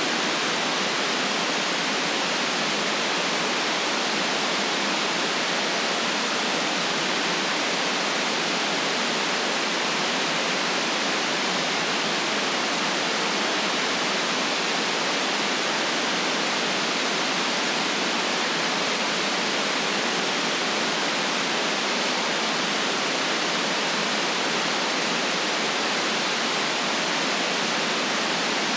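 Steady white noise: an even, unchanging hiss with no low rumble and no events in it.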